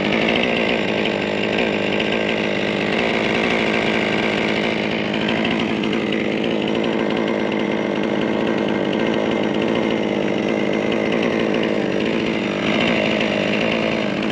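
Two-stroke chainsaw engine running steadily, its carburetor just cleaned and adjusted, picking up slightly near the end.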